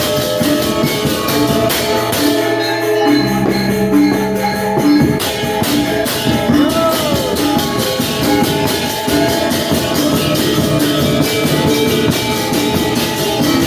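Balinese gong kebyar gamelan playing: bronze metallophones in fast, dense patterns over drums and cymbals. About two seconds in the cymbals briefly drop out and low gong tones sound, before the full ensemble returns about five seconds in.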